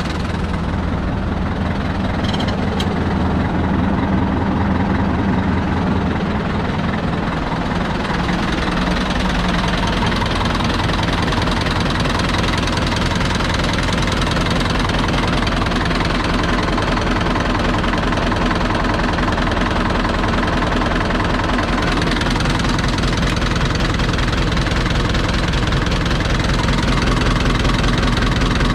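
Deutz F4L514/5 tractor's air-cooled four-cylinder diesel engine running steadily with a knocking diesel beat. The tone shifts about eight seconds in and again a little past twenty seconds.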